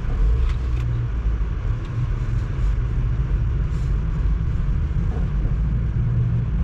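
Car driving along a snow-covered road, heard from inside the cabin: a steady low rumble of engine and tyre noise.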